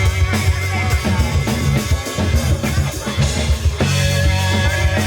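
Live funk-rock band playing: drum kit, bass and electric guitar.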